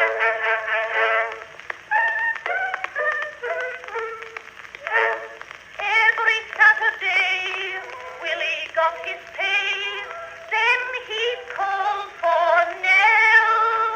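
Playback of an acoustically recorded 1913 Edison Blue Amberol cylinder: a popular song's melody with wavering vibrato notes, thin and tinny with no bass.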